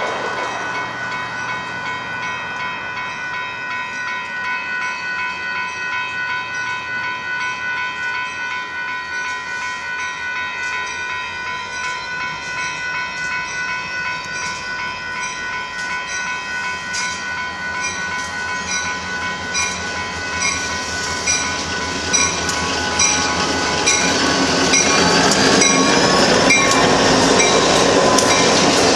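Diesel locomotives running light approach and pass close by. A steady high ringing tone holds through most of it, and then the engines and the wheels' clicks over the rail joints grow loud in the last few seconds as the units go past.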